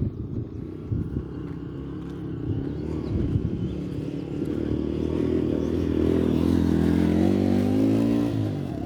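A motor vehicle engine approaching and passing close by, growing louder through the middle and fading away near the end.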